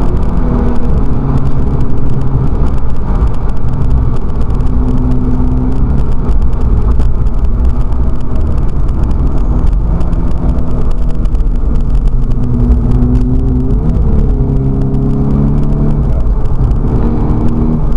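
Volkswagen Scirocco race car's engine running loudly, its pitch rising and falling several times as engine speed changes, over a steady low road rumble.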